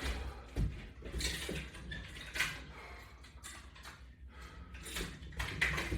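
Scattered light metallic clinks and rattles from resistance-band exercise equipment being worked or handled: band clips and chains knocking together.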